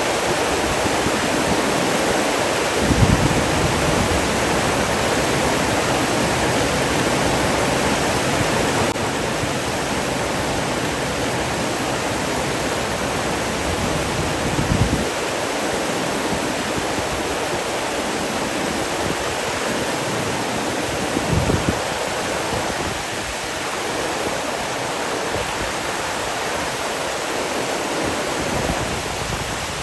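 Steady rush of running water, with three brief low thumps: about three seconds in, about fifteen seconds in, and about twenty-one seconds in.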